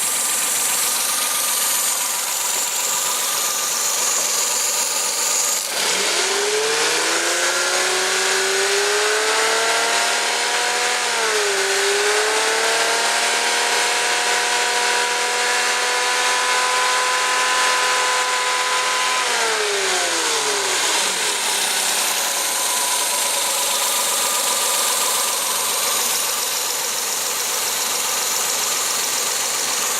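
Suzuki K6A 660 cc three-cylinder engine idling, then revved up about six seconds in. Its pitch rises and is held high for about thirteen seconds with a brief dip, then falls back to idle around twenty seconds in.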